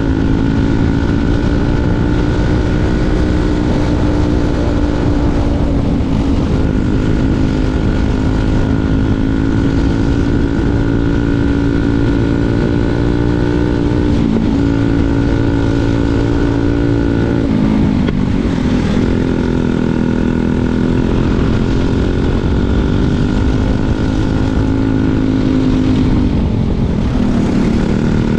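Briggs & Stratton 206 single-cylinder four-stroke kart engine running hard at high revs on track, its pitch dropping briefly several times as the throttle comes off for corners and then climbing back up.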